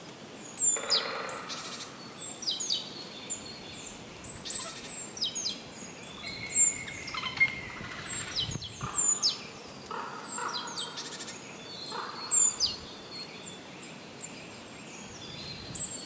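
Wild birds chirping: repeated short, high calls that slide down in pitch, about one or two a second, over a steady outdoor hiss.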